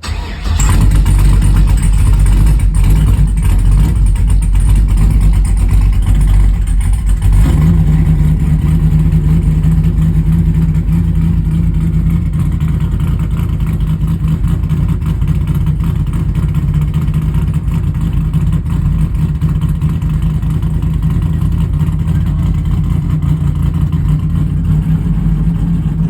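Dragster engine starting from cold and running very loud. It catches at once and runs rough for about seven seconds, then settles into a steady, even idle.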